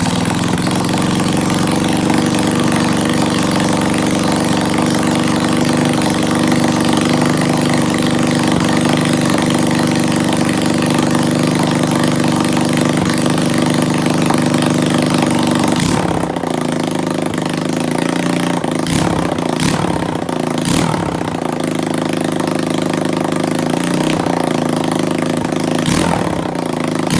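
Lifan 125cc single-cylinder four-stroke engine of a homemade TTR 125 pit bike, running through a straight-piped exhaust about 8 inches long. It idles steadily for most of the time, then gets several throttle blips in the last ten seconds, the revs rising and falling each time.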